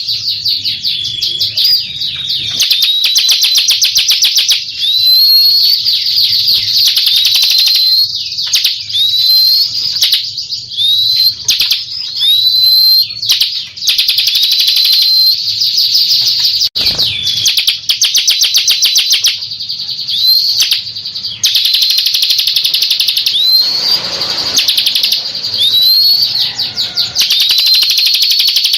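Bar-winged prinia (ciblek) singing: a fast, high, rattling trill of rapid notes, broken about every second by a short rising note.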